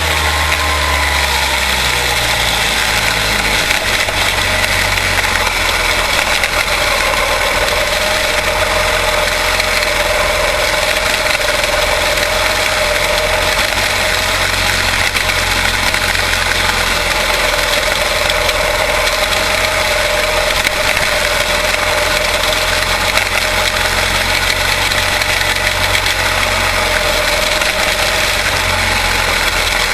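Quarter-midget race cars' small single-cylinder Briggs & Stratton Animal engines running hard on track, a loud, steady drone whose pitch barely changes.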